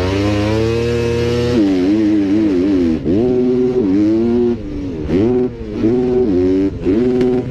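Motocross dirt bike engine revving hard. The pitch climbs steadily for about the first second and a half, then the throttle is opened and chopped over and over, the pitch rising and dropping about once a second.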